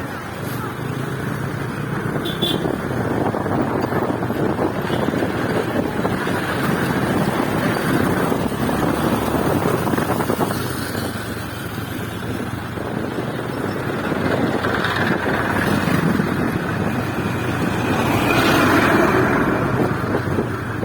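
Motorcycle running steadily while being ridden, with wind rushing over the microphone. The noise swells near the end.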